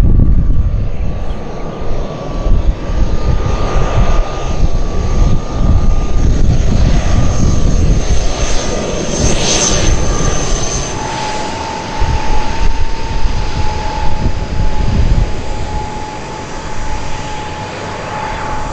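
ATR 72-600 turboprop airliner on landing approach, flying past with its engines and propellers running steadily. Their whine drops in pitch about eleven seconds in as the plane goes by.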